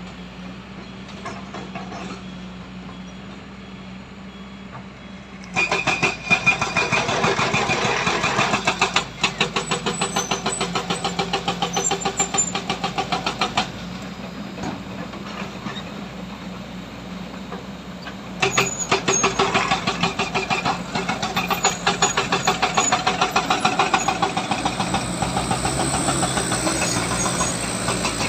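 Heavy diesel engine idling, then revving hard under load about five seconds in, with a fast pulsing beat. It eases off for a few seconds partway through, then is pushed hard again.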